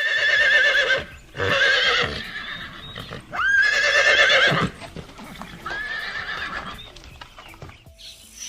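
Horse whinnying four times, each call about a second long with a wavering, quavering pitch, the last one quieter.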